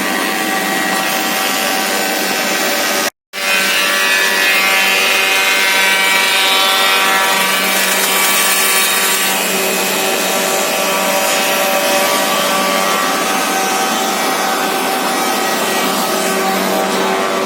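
Harbs four-sided planer-moulder running loud and steady, its cutterheads machining wood with a steady hum under a hiss of cutting. The sound breaks off for an instant about three seconds in.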